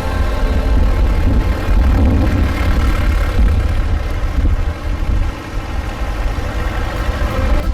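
Tractor engines running steadily with a heavy low rumble.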